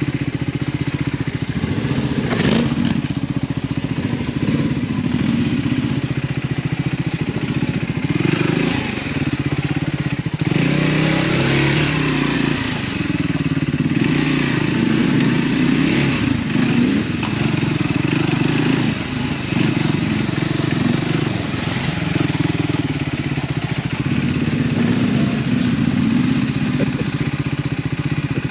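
Triumph Scrambler 400 X's single-cylinder engine through its stock exhaust, ridden off-road. The revs rise and fall continuously as the throttle opens and closes.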